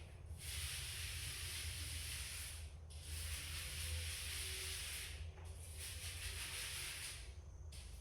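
Paint being applied to a wall in long strokes: a steady hiss that breaks off briefly about every two and a half seconds as each stroke ends, over a low hum.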